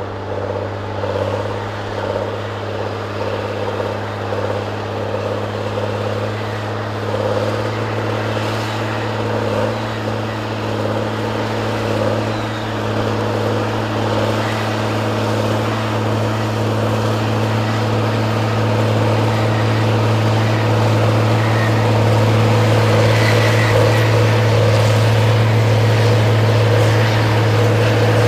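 Engine of a heavy forestry machine running steadily, a constant low drone with a wavering note above it, growing gradually louder toward the end.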